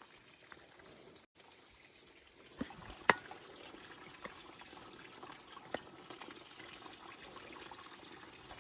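Water from a solar-powered well pump running and trickling steadily, with a few sharp clicks, the loudest about three seconds in.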